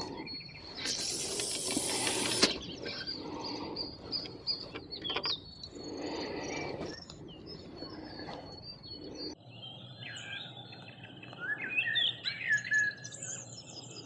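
Small birds chirping and calling, most clearly in the second half as short rising and falling chirps. About a second in there is a rush of noise lasting about a second and a half, the loudest thing here.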